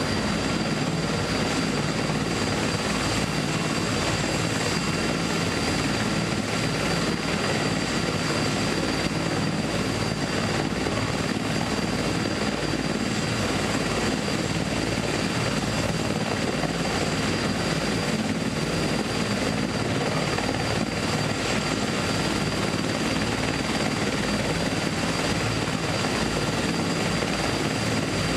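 Car engine idling, a steady mechanical drone heard from inside the cabin, with a few faint steady high whines above it.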